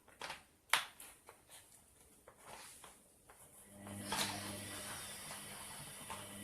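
Plastic water bottle handled and capped, giving a few sharp clicks and knocks, the loudest under a second in. From about four seconds in a steady low hum with a hiss takes over.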